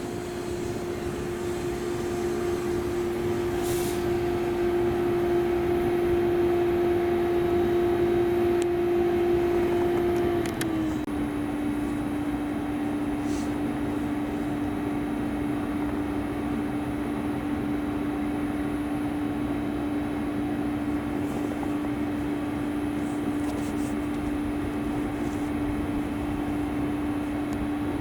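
A train passing close by with a steady whine that grows louder, then drops in pitch as it goes past about ten seconds in. After that the lower whine carries on over the steady rolling noise.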